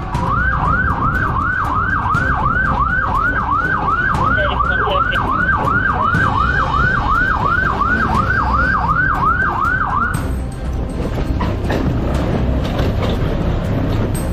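Police siren in a fast yelp, rising and falling about two and a half times a second, which cuts off about ten seconds in, over steady vehicle engine and road noise.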